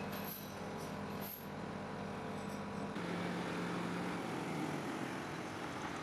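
Heavy diesel machinery engine running steadily, its note shifting about three seconds in, with a couple of light knocks in the first second and a half.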